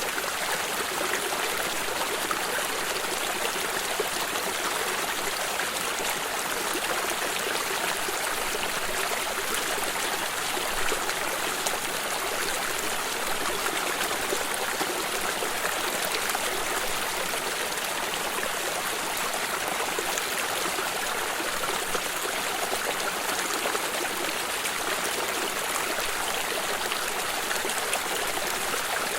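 Small stream running steadily over stones, an even rushing and trickling of water.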